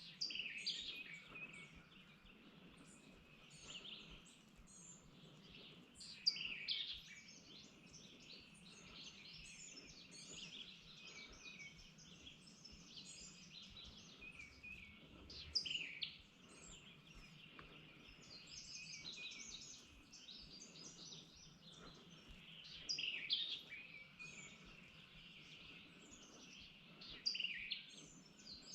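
A chorus of songbirds singing, many short chirps and whistled phrases, with a louder song standing out every several seconds.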